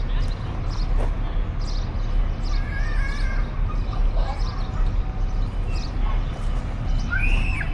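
Outdoor street ambience while walking: a steady low rumble with light ticking steps and a few short high chirps, the chirps about a third of the way in and again near the end.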